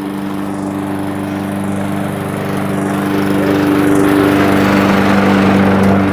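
Lawn mower engine running steadily, growing louder over the last few seconds. It is cutting dry, near-bare ground with hardly any grass on it.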